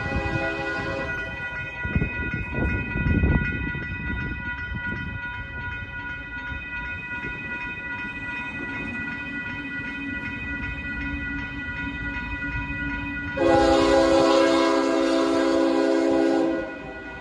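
Train horn sounding over rail noise: steady horn tones throughout, then one loud blast of about three seconds near the end.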